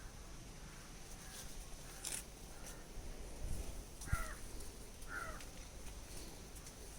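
A bird calling twice, about a second apart, each short call falling in pitch, over faint outdoor background with a few light clicks.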